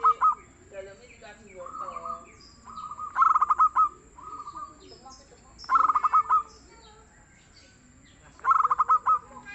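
Zebra dove (perkutut) cooing: short phrases of rapid, bubbling coo notes, repeated every two to three seconds.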